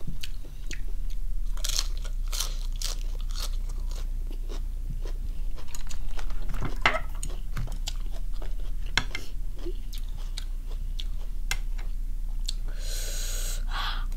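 Close-miked chewing and crunching of crisp romaine lettuce and squid salad: a run of short wet crunches, with a longer crisp crunch near the end and a low steady hum underneath.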